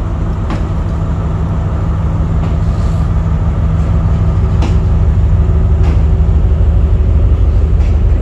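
Sri Lankan diesel train running, with a steady low engine drone that grows slightly louder and a few faint clicks.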